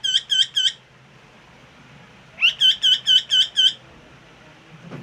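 Pet parrot calling in rapid runs of repeated sharp notes, about five a second. One run trails off in the first second, and a second begins about two and a half seconds in with a rising note and runs for over a second.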